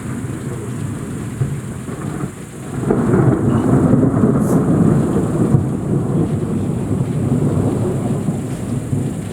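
Long rolling thunder, a low rumble that swells about three seconds in and keeps rumbling, with rain falling steadily throughout.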